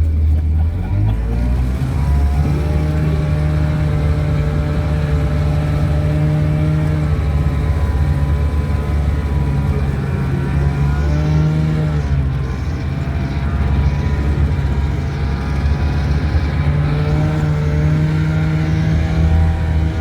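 Small engine of a 1970 Cony kei truck running as it is driven, its pitch rising and falling with the throttle: it climbs about two seconds in, drops briefly near the middle, and picks up again toward the end.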